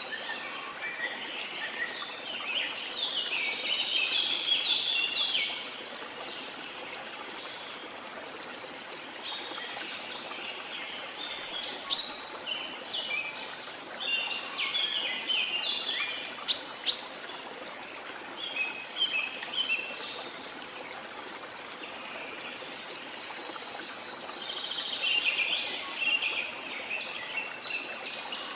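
Birds singing in repeated clusters of quick high notes, with a few sharp chirps, over the steady rush of a waterfall.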